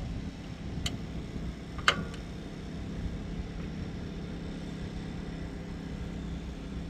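A steady low machine hum runs throughout, with two sharp metallic clicks about a second apart near the start as a part is fitted into place on the engine.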